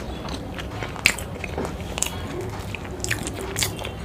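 Close-miked chewing of a mouthful of saucy chilli momo with the mouth closed: wet, irregular mouth clicks and smacks, about three a second.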